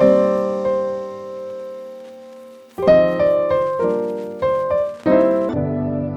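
Background piano music: a chord that rings and fades for nearly three seconds, then a quick run of notes, and a low chord held near the end.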